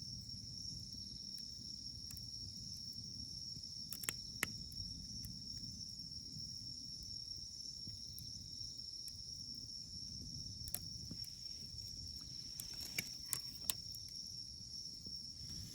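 Campfire wood burning with a low steady rustle and a few sharp crackling pops: two about four seconds in, one near eleven seconds and three close together near the end. A steady high insect chirring, like crickets, runs underneath.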